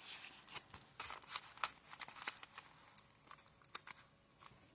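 Paper pages and tags of a handmade junk journal being handled and turned: a string of short, irregular paper rustles and light taps.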